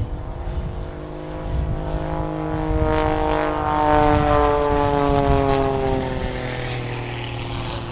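Jet Pitts aerobatic biplane flying past, its propeller engine note slowly falling in pitch as it goes by, loudest about four seconds in and then fading.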